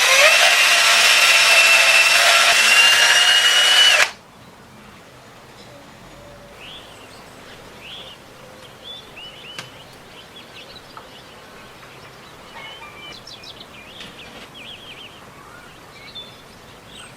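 Power tool spinning up and running at steady full speed with a high whine for about four seconds, then stopping abruptly. Birds chirp faintly afterwards.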